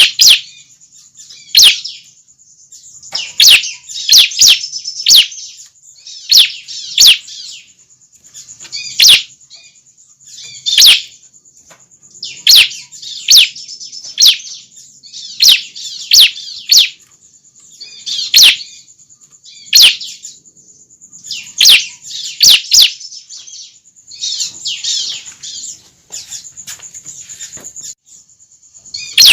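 Young bar-winged prinias (ciblek) calling: loud, short, sharp chirps that sweep down in pitch, repeated every second or two and often in quick pairs or threes, the kind of call used to lure adult birds in.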